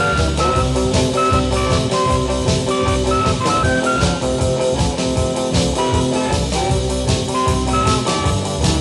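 A late-1950s instrumental rock and roll record. A lead melody moves in short held notes over a steady drum beat, with guitar and bass underneath.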